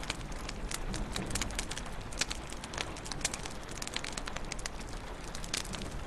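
Wood fire crackling in a fireplace: many irregular sharp pops and snaps, several a second, over a steady low rumble and hiss.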